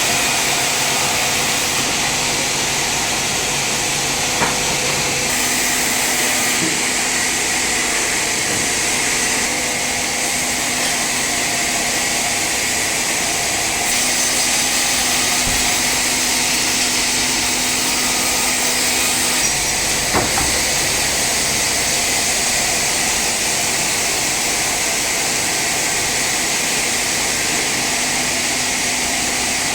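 Sawmill saw running steadily through a teak log, a constant mechanical noise, with two brief knocks, one a few seconds in and one about two-thirds of the way through.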